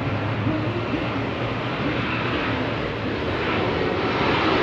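Aeroplane passing low overhead: a steady roar that grows louder near the end.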